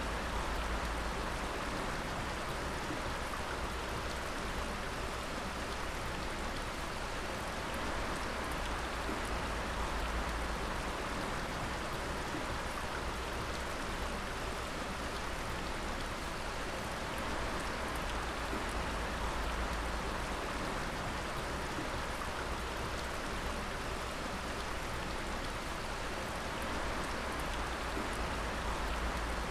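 Water dripping and splashing steadily, many drops landing at once like rain, with a steady low rumble underneath.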